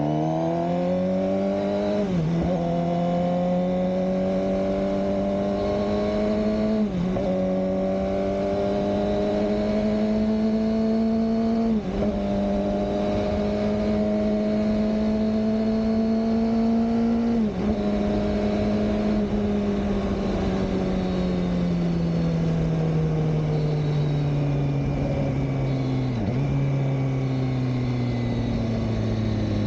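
Suzuki GSX-R600 K7's inline-four engine pulling up through the gears: its pitch climbs steadily in each gear and drops sharply at four upshifts about five seconds apart. After the last, the engine note falls slowly as the bike slows, with another gear change near the end.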